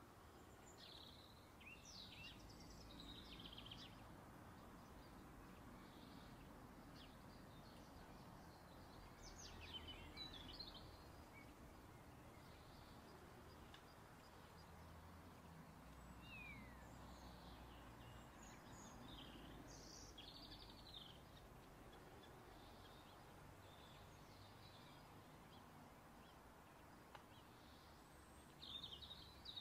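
Near silence: faint scattered bird chirps and twitters over a low hiss.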